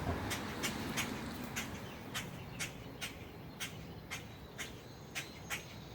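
A bird repeating short, sharp squawking calls about twice a second, over low background noise that fades away in the first two seconds.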